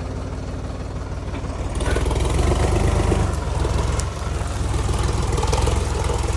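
Sonalika DI 50 RX tractor's diesel engine running steadily, getting louder about two seconds in.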